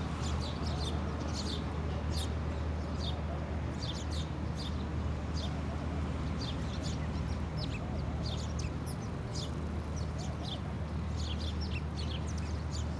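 Many small birds chirping: a dense chatter of short, high chirps, several at a time and overlapping without pause, over a steady low hum.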